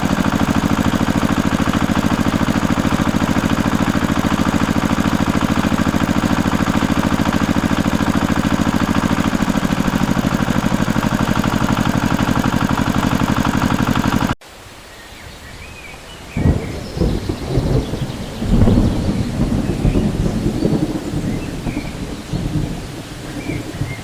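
A small engine running steadily with a fast, even beat, cut off abruptly about fourteen seconds in. After it come irregular low rumbles and thumps.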